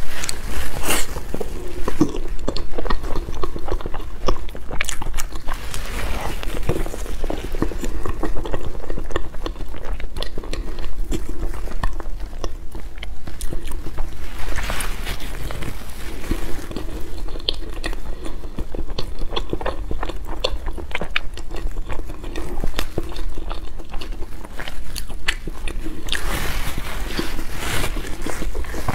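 Close-miked chewing and mouth clicks of a person eating a soft crepe roll filled with cream and custard. Many small clicks throughout, busier in patches about halfway through and near the end.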